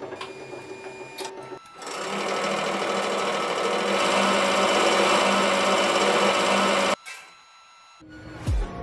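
Small electric motor of a homemade press machine running with a mechanical rattle, getting much louder about two seconds in and cutting off suddenly about seven seconds in.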